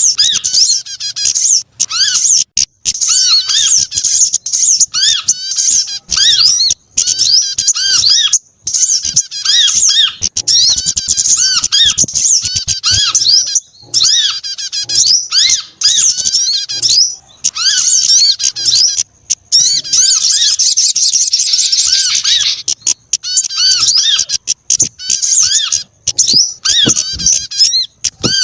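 Bird-lure recording that mixes the calls of several small birds, among them sogon, kemade, korlap and prenjak: dense, rapid, high-pitched chirping and twittering, repeating with short breaks. About two-thirds of the way through there is a buzzier, more continuous trill.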